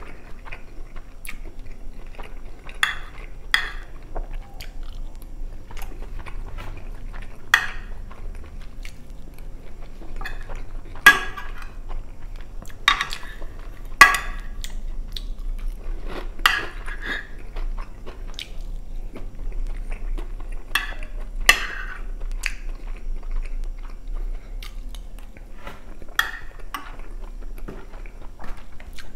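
Close-miked chewing of chicken stroganoff with rice and crunchy shoestring potato sticks. A metal fork clinks sharply against a glass baking dish now and then, about a dozen times.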